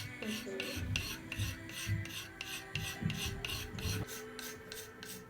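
Rhythmic scraping of a hand tool over clay, about three strokes a second, as the walls of a hand-built ceramic piece are thinned.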